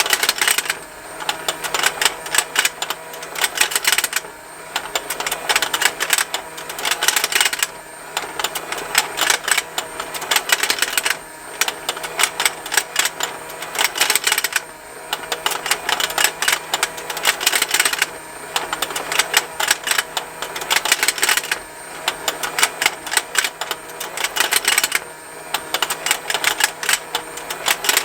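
Plastic fishing lake toy running: its motor-driven rotating pond and snapping plastic fish make a continuous rapid ticking that swells louder about every three and a half seconds, over a faint steady motor hum.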